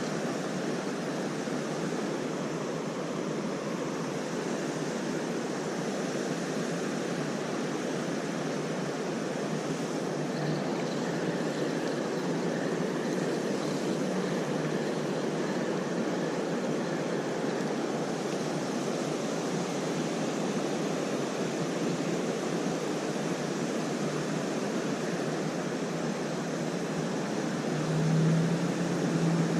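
Creek water rushing steadily, an even noise with no change.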